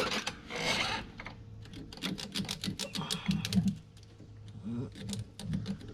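Plastic zip ties being snipped and pulled free, a quick run of small sharp clicks in two clusters.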